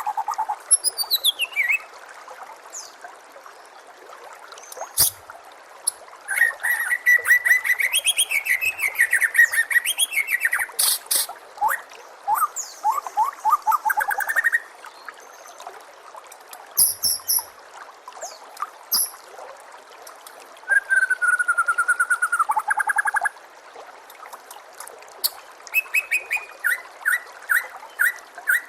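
White-rumped shama (murai batu) singing a varied song in separate bursts: quick trills, rising and falling whistled phrases, and runs of rapid repeated notes, over a steady background hiss.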